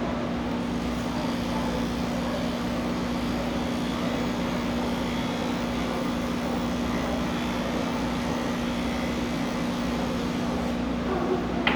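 Electric pet clippers running with a steady hum while shaving a cat's coat.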